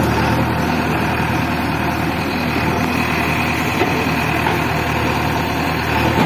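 JCB 3DX backhoe loader's diesel engine running steadily at an even speed, with a low drone.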